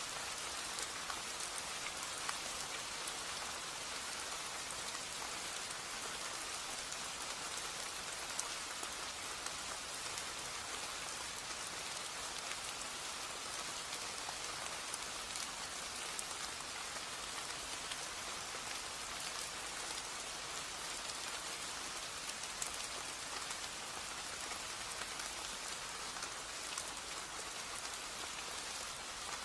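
Steady rain falling on garden foliage and ground: an even hiss with scattered drops ticking close by.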